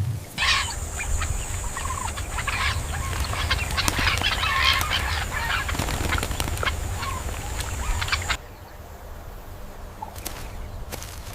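Chickens clucking and calling, with a steady high whine behind them. About eight seconds in, the sound cuts off abruptly to a quieter background with a few faint clicks.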